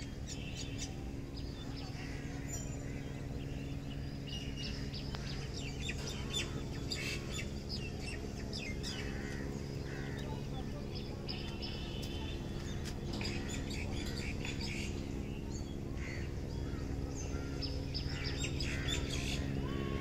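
Birds chirping, with many short high calls scattered throughout and coming thicker in places, over a steady low hum.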